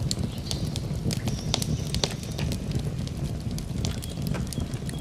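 Campfire burning: a steady low rumble of the flames with frequent sharp, irregular crackles and pops from the burning wood.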